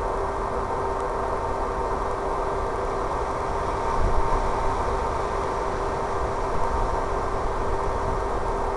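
Steady rushing wind noise with a constant low hum under it, and low gusts buffeting the microphone, the strongest about four seconds in.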